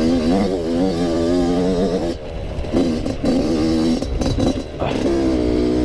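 Yamaha YZ85 two-stroke dirt bike engine revving up and down while riding, the throttle dropping off briefly about two seconds in. Several sharp clattering knocks come between about four and five seconds in.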